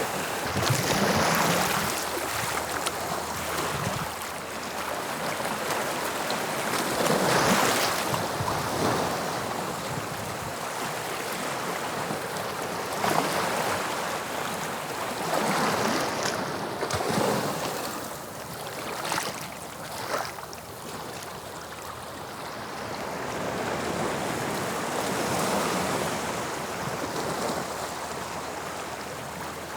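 Sea waves breaking on the shore, a continuous wash of surf that swells and falls back every few seconds.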